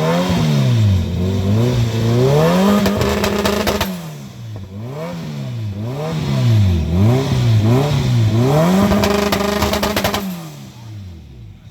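A car engine revved repeatedly, its pitch climbing and falling back in a string of quick blips and held at high revs twice, before settling back down near the end.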